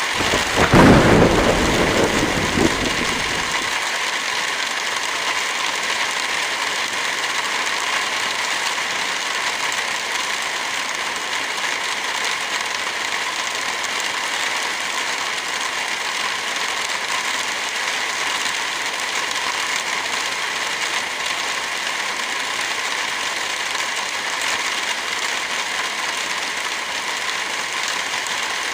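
Heavy rain falling steadily, with a low rumble of thunder in the first few seconds that dies away.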